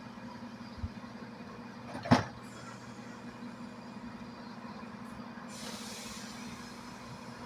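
Diesel train engine idling with a steady low hum. A single sharp clunk about two seconds in is the loudest sound, and a hiss of air starts about two seconds before the end.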